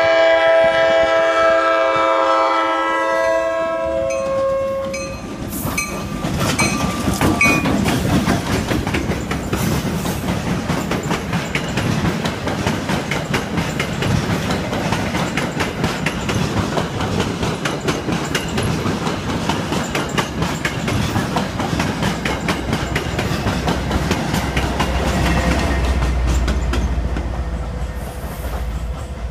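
Passenger train horn sounding a chord of several notes for about four seconds and dropping slightly in pitch as it ends. Then the passenger coaches roll past with a continuous rumble and wheels clacking over the rail joints. Near the end the diesel locomotive pushing at the rear passes with a deep engine rumble.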